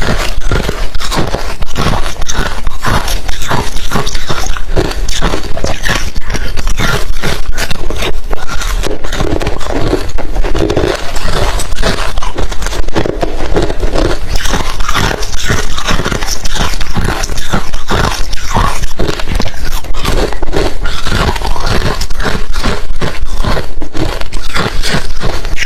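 Close-miked, loud crunching and chewing of hard refrozen crushed ice in the mouth: a dense, continuous run of sharp crunches, several a second.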